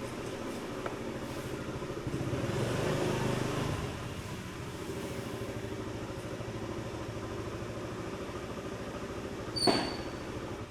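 Steady low rumbling drone, swelling between about two and four seconds in, with a single sharp strike that rings briefly and brightly near the end.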